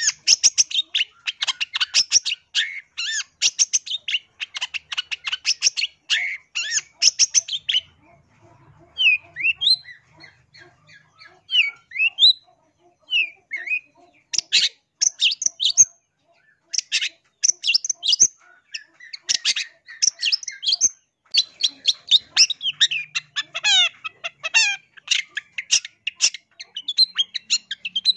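Long-tailed shrike (cendet) singing in rapid, harsh chattering notes. A quieter stretch of short rising whistles comes roughly nine to fourteen seconds in, then the fast chatter resumes.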